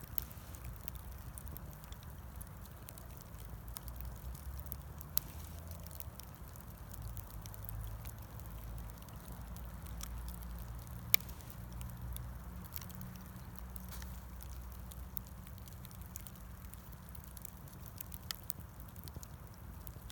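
Bonfire of scrap wood crackling, with irregular sharp pops, two louder ones about 5 and 11 seconds in, over a low rumble.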